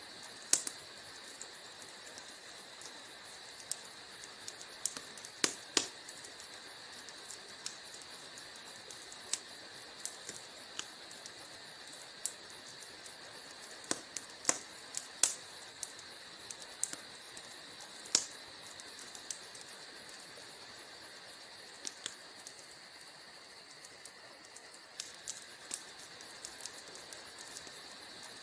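Wood fire burning in a fireplace, crackling: irregular sharp pops and snaps, a few of them much louder than the rest, over a steady hiss.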